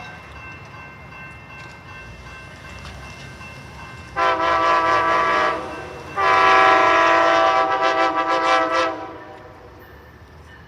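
Locomotive air horn sounding two blasts of a multi-note chord: a shorter one about four seconds in, then a longer one of nearly three seconds.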